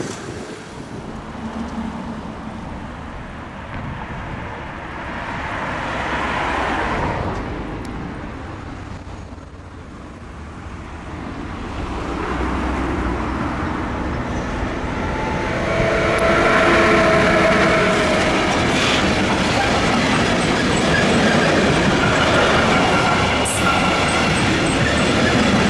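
Siemens Vectron electric locomotive hauling a container train, approaching and growing steadily louder, then passing close with its wagons rumbling and clattering over the rails. A whining tone comes in about two-thirds of the way through as it goes by.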